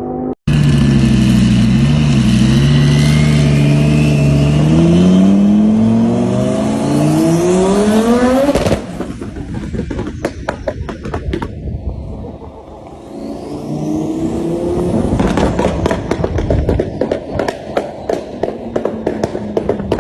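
Twin-turbo Lamborghini engine accelerating hard, its pitch rising steadily for about eight seconds before the driver lifts off. After lift-off the exhaust pops and crackles, then another brief rev is followed by a long run of irregular crackles.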